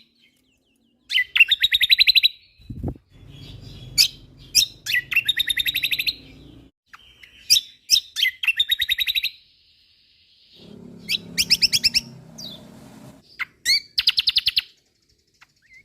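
Kecial kombok (cucak kombo) songbird singing in loud, fast-trilled phrases of rapidly repeated notes, broken by sharp single chirps and short pauses. A low murmur sits under some of the phrases.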